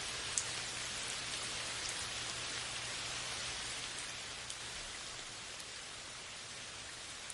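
Steady rain with scattered individual drops ticking sharply, one loud drop hit about half a second in; the rain eases slightly in the second half.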